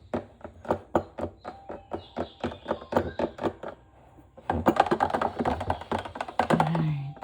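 Kitchen utensils and containers being handled: a quick run of taps and knocks, then about three seconds of busy clattering and scraping from about halfway in.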